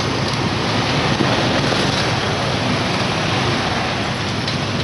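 Steady wind rush and road noise on the microphone of a moving motorcycle, with the engine running underneath.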